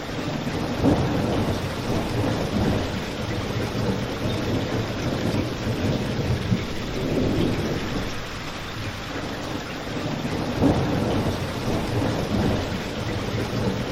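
Steady rain, with low rumbling swells that rise and fall every few seconds and a few sharper pops.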